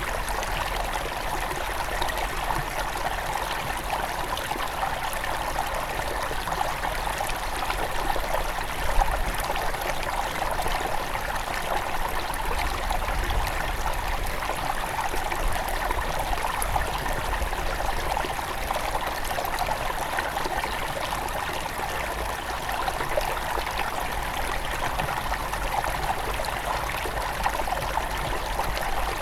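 Small mountain stream near its source, flowing and trickling steadily over stones, with a faint low rumble underneath.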